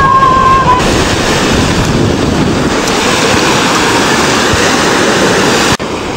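Sea surf washing on the shore, with wind rumbling on the microphone. A brief high call sounds at the start, and the level drops abruptly near the end.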